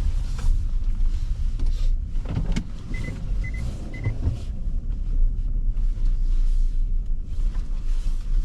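Minivan driving, heard from inside the cabin: a steady low road-and-engine rumble. Three short high beeps about half a second apart sound around three seconds in.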